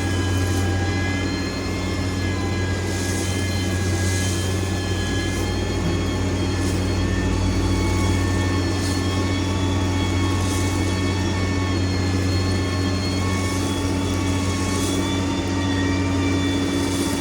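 Heavy road-construction machine's engine running steadily: a deep hum with several high whining tones over it.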